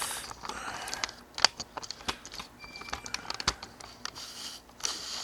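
Hand tools clicking and clinking against metal axle parts: irregular taps, short scrapes and a few sharper knocks, with a brief squeak near the middle.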